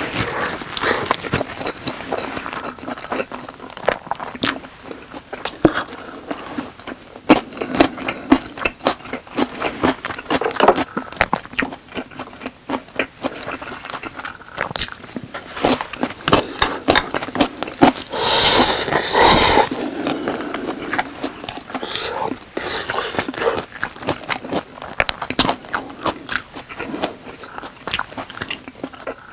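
Close-miked eating of boneless chicken with rice: wet chewing and biting, crunches, and sharp utensil clicks and scrapes. About eighteen seconds in comes a louder noisy stretch in two parts.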